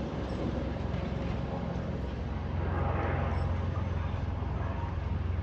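Heritage tram running, a steady low rumble that grows a little louder about halfway through.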